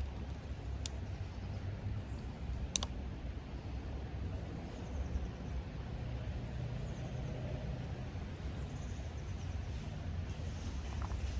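Steady low outdoor rumble by the creek, with two short sharp clicks about a second and about three seconds in.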